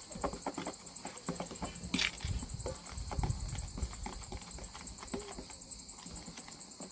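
Irregular clicks and knocks of cooking work, such as a spoon against a mixing bowl, with a short rising scrape about two seconds in. Steady insect chirring from crickets runs high in the background.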